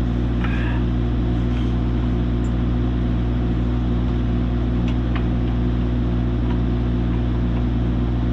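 Engine idling steadily at a constant speed, with a few faint light clicks of metal parts.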